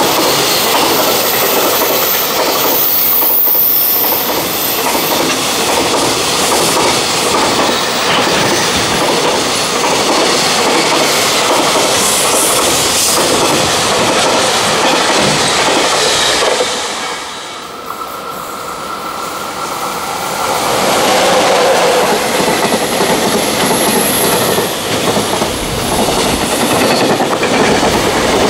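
Freight train running past at close range, its wagons' wheels clattering over the rail joints, with a brief dip in loudness about two-thirds of the way through.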